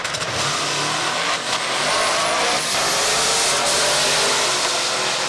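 Two drag cars making a side-by-side pass at full throttle, their engines running hard as they accelerate down the strip, with a faint rising whine partway through.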